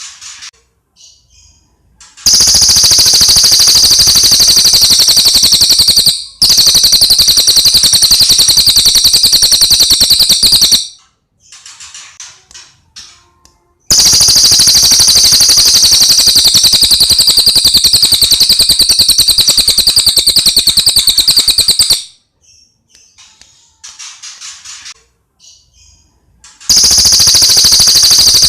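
Cililin bird song: long, very fast, high-pitched trills lasting several seconds each, three of them, with short scattered chirps in the gaps between.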